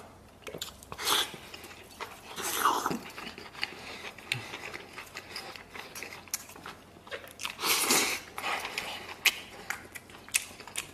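Close-miked chewing of a piece of braised pork belly: wet smacking and clicking mouth sounds, with a few louder, longer wet mouth noises about one, three and eight seconds in.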